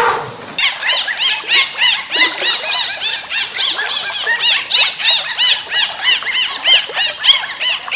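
Many short, high-pitched squealing calls from a group of animals, overlapping at several a second.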